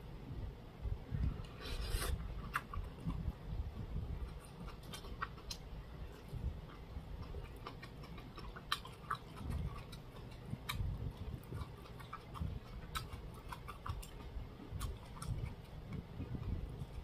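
A person chewing food close to the microphone, with many small, irregular wet mouth clicks and a brief rustle about two seconds in.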